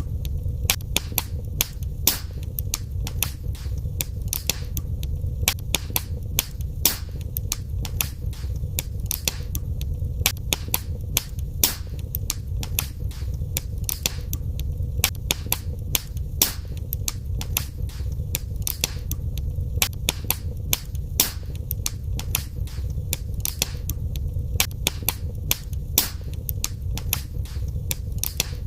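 Wood fire burning in a fireplace: constant irregular sharp crackles and pops, several a second, over a steady low rumble of the flames.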